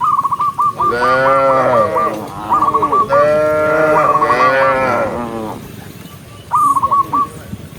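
Cattle mooing: two long, drawn-out moos, the first about a second in and the second from about three seconds in, over a repeated string of short high chirps.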